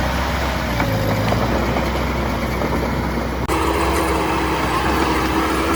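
Heavy diesel construction machinery running steadily. About three and a half seconds in, the sound changes abruptly, and a steady whine sits over the engine noise.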